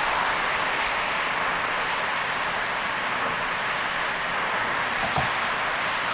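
Car driving through heavy rain: a steady hiss of rain and tyres on the wet road, with one brief knock about five seconds in.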